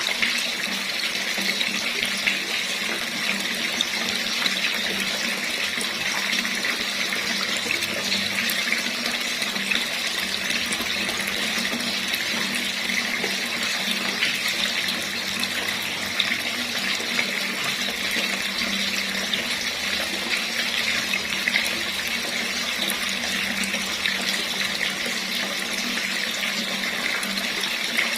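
Water running steadily from a tap, an even splashing hiss with no change in flow.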